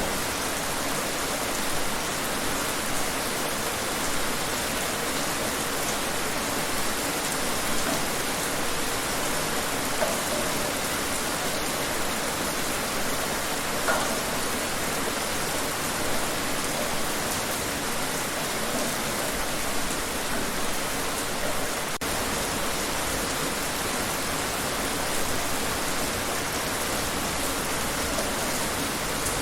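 Steady rain falling outside, an even hiss of rain on surfaces with scattered louder drops now and then.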